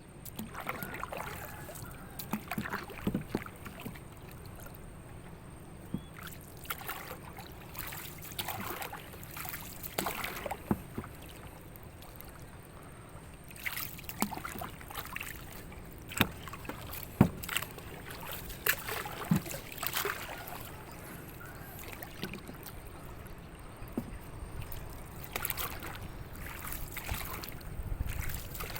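Water lapping and splashing against wooden fishing boats, with scattered irregular knocks and clatters.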